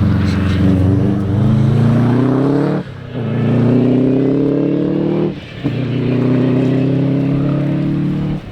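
Four-wheel-drive rally car accelerating hard, its engine note rising through the revs, with two short breaks for upshifts about three and five and a half seconds in, then lifting off near the end.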